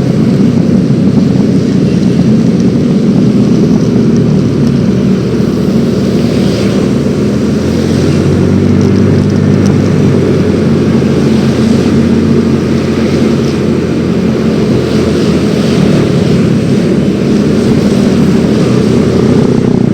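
Yamaha X-Ride 113cc scooter's single-cylinder engine running steadily while riding, with road and air noise, loud and even throughout.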